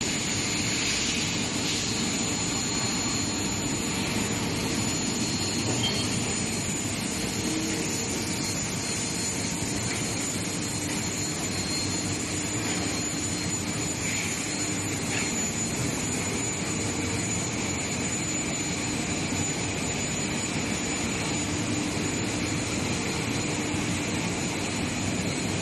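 Long-bar induction hardening and tempering line running: a steady industrial roar with a constant high-pitched whine laid over it.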